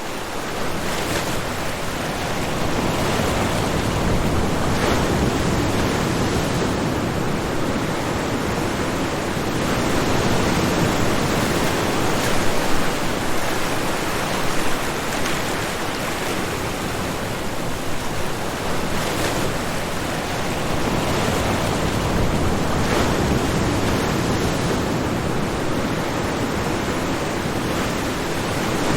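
Ocean waves washing onto a shore: a continuous rushing surf that swells and eases slowly.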